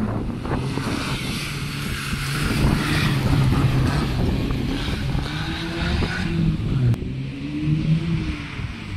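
A classic rally car's engine pulling hard as the car drives round a roundabout and past. Its note climbs, dips and climbs again in the second half, then falls away near the end.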